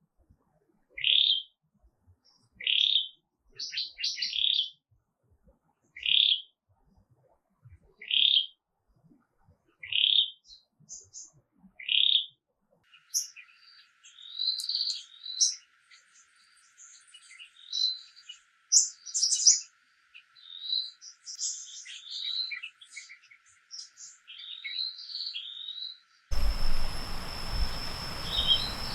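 A songbird calling with a short rising chirp, repeated about every two seconds. After about twelve seconds it gives way to busier, more varied twittering. Near the end the sound cuts to a steady hiss with a thin, high, steady tone.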